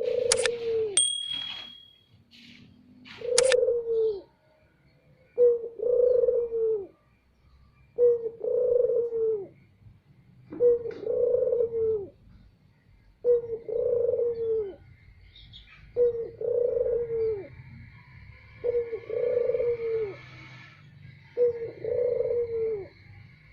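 Barbary dove (puter) cooing loudly, the same coo phrase repeated about every two and a half seconds, nine times. There are two sharp clicks in the first few seconds.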